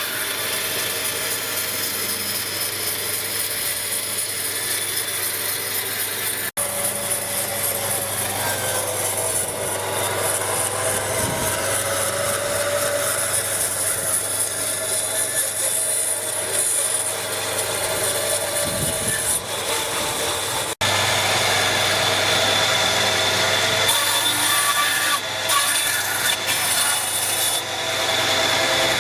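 Hand or power tools working wood, a continuous rasping, sawing sound. It comes in three stretches separated by abrupt cuts about six and a half and twenty-one seconds in, and the last stretch is louder.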